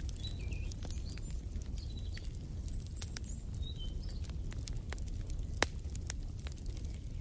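Wood fire crackling with frequent sharp pops over a low steady rumble, one louder pop about five and a half seconds in. Short high bird chirps come through in the first half.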